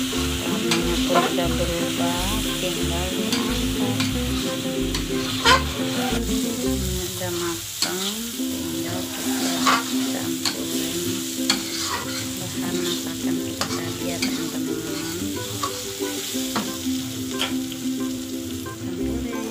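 Prawns and petai stir-frying in red chili sambal in a pan, sizzling steadily, with a spatula scraping and knocking against the pan again and again as it is stirred.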